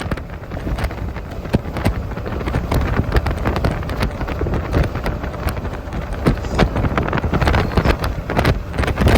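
Strong storm wind buffeting the microphone: a heavy, steady low rumble with many sharp crackles and pops throughout.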